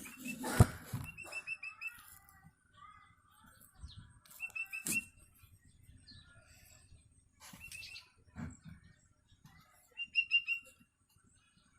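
Young long-tailed shrike (cendet) giving hungry begging calls: quick runs of about five short, high chirps, repeated four times a few seconds apart. A brief rustle or thump comes under a second in.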